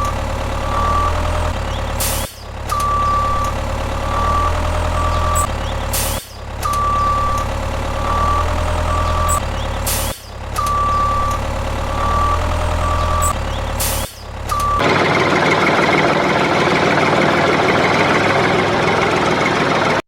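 Truck reversing alarm beeping over a low engine idle. The same pattern, a long beep then shorter beeps, repeats like a loop about every four seconds. About fifteen seconds in, it gives way to a louder, steady rushing noise.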